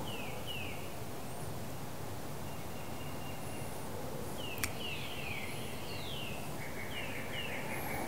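Songbirds calling over steady outdoor background noise: repeated short falling whistled notes, often in pairs, and a rapid trill that starts near the end. A single sharp click about four and a half seconds in.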